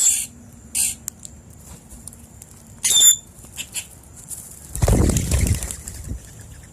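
Birds' wings flapping in a loud flurry about five seconds in, as birds take off from the feeding spot. Short high bird chirps come near the start and about three seconds in.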